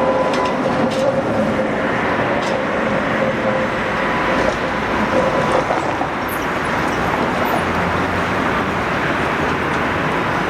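ČKD Tatra T3 tram running along the street: a steady rolling rumble on the rails, with a faint steady hum that fades about a second in and comes back briefly midway.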